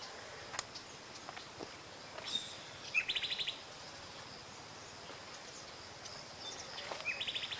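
A wild bird calling twice, about four seconds apart: each call a sharp note followed by a fast rattling trill.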